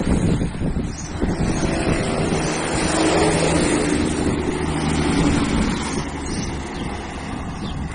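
Mack truck engine running under way, its note rising about two to three seconds in, then easing off a little toward the end.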